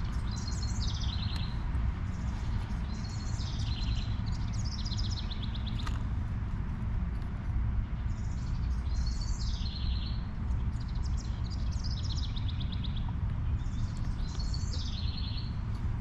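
A songbird singing the same phrase about four times, each a few falling notes running into a fast trill, over a steady low rumble.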